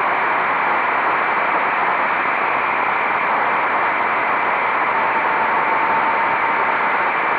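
Steady rush of wind noise on the microphone of a motorcycle riding at speed, with the engine faintly audible as a steady tone in the second half.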